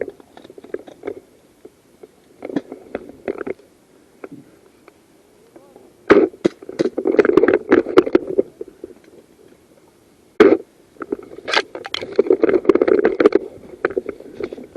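Close rustling and crackling of movement right against a body-worn microphone, with scattered clicks and two longer stretches of dense rustling about six and twelve seconds in, each starting with a sharp crack.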